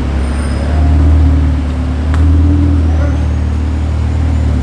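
Ferrari 488 Pista's twin-turbo V8 running with a deep, steady drone that swells louder about a second in and again just past two seconds.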